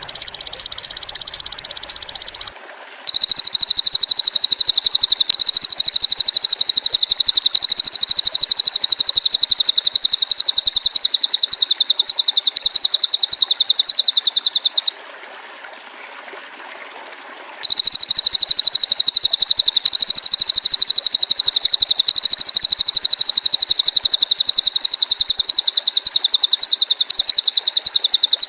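Bird-training recording of cililin and belalang emas calls: loud, very fast, high-pitched trills. A short lower trill lasts about two and a half seconds, then a much higher buzzing trill runs for about twelve seconds, stops for about three seconds, and starts again until near the end. A trickling stream is heard in the gaps.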